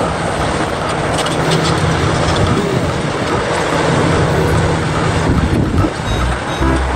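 Bulldozer engine running steadily, a low hum under a dense, even mechanical noise.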